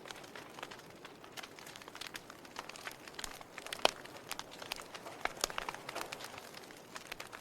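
Wood log fire crackling: irregular sharp pops and snaps over a soft hiss, with one louder pop near the middle.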